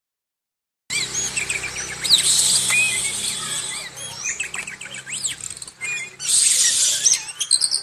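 Oriental magpie-robin (kacer) singing vigorously, starting about a second in: a fast run of varied whistles and chirps broken by two harsh, hissing passages. The bird is in moult.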